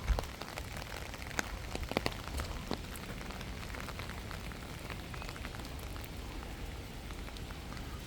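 Steady rain falling, with a scatter of sharp drop ticks in the first few seconds.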